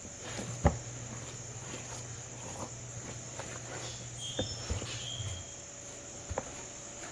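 Steady high-pitched chorus of crickets, with a few scattered knocks and taps, the loudest just under a second in.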